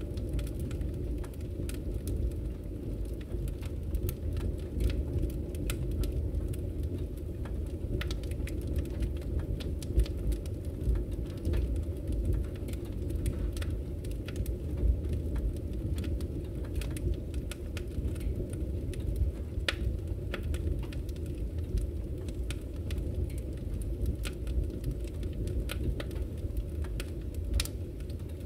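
Wood fire in a fireplace burning with a steady low rumble and frequent small crackles and pops scattered throughout.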